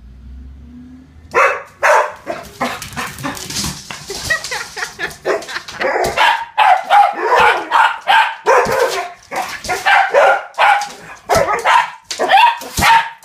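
Dogs barking loudly and continuously in rapid, overlapping barks, worked up by a garbage truck outside. A low rumble is heard for about the first second before the barking starts.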